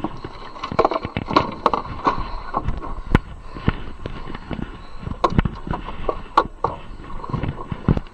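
Irregular knocks, clunks and sharp clacks, several a second, with a few heavier thuds, from the boat and gear being handled.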